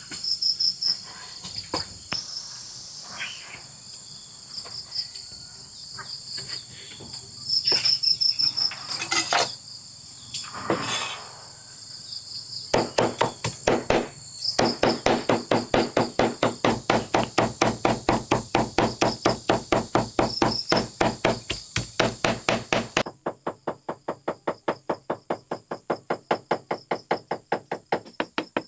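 Rapid, even striking, about four sharp knocks a second, begins about halfway through and keeps on, over a steady high chirring of insects. The insect chirring drops out near the end while the knocking continues.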